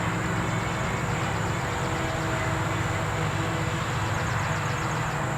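A steady low rumble and hiss of unclear source, under an insect chorus: a constant high buzz with pulsing trills that come twice.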